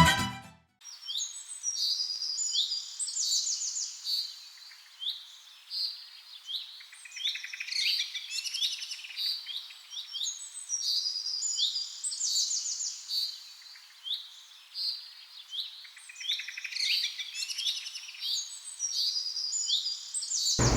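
Several small birds chirping and twittering, many short, high overlapping calls in quick runs.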